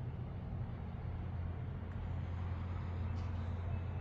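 A steady, low mechanical hum, unchanging throughout.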